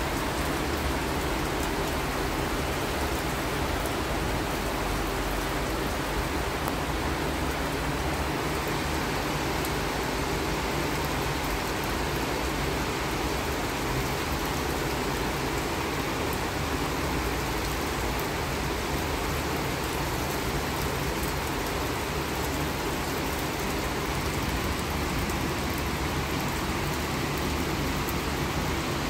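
Tropical rain squall falling steadily: an even, unbroken hiss of heavy rain.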